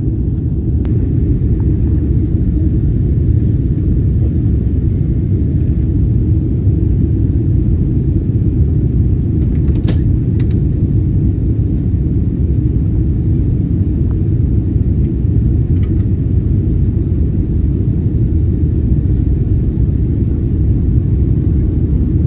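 Airliner cabin noise: a steady low rumble of the jet's engines and airframe, with a couple of faint clicks about ten seconds in.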